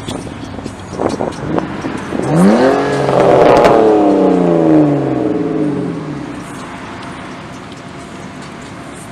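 Car engine revving hard as a car accelerates past: the engine note climbs steeply about two seconds in, stays loud for a second or two, then falls in pitch and fades away, leaving a low steady background.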